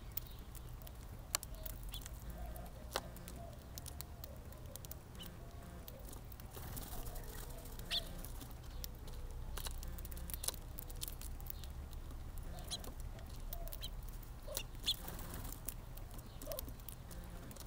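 Birds at a backyard feeder: faint low, wavering cooing calls with a few short, sharp high chirps and scattered clicks, over a steady low rumble.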